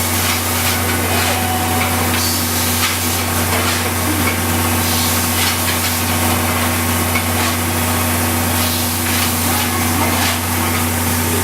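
D51 steam locomotive hissing steam, with irregular spurts, over a constant low hum.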